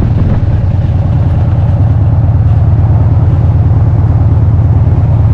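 Motorcycle engine running steadily at a loud, even, low throb.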